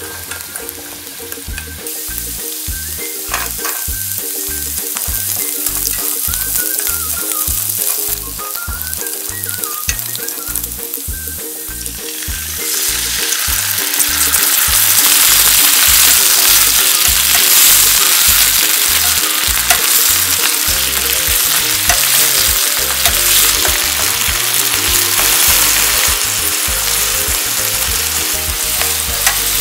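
Garlic cloves sizzling as they fry in oil in a pan, with the occasional stir. About 13 s in, the sizzle gets much louder and brighter as a soy-sauce-based sauce is poured in and bubbles with the garlic and walnuts.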